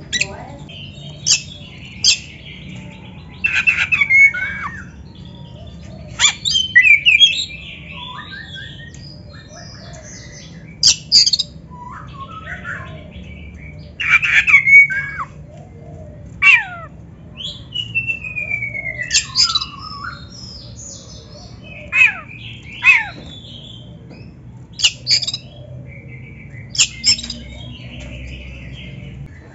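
Oriental magpie-robin (kacer) singing: short loud phrases of varied whistles, sliding notes and harsh squawky notes, one every second or two with short pauses between, over a faint low hum.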